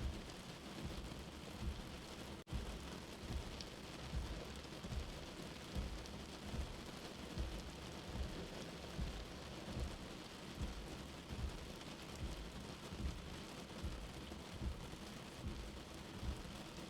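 Steady rain hiss with a soft, low heartbeat thump repeating about every 0.8 seconds. The sound cuts out for an instant about two and a half seconds in.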